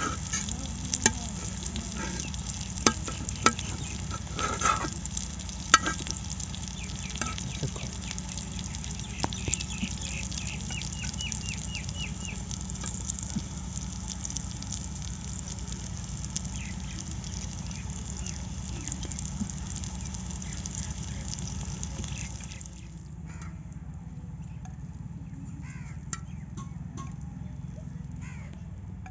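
Chicken tikka pieces sizzling in oil on a hot iron tawa, with sharp clicks of a metal spatula tapping and scraping the pan in the first several seconds. The sizzle drops away suddenly about 23 seconds in, leaving a quieter background.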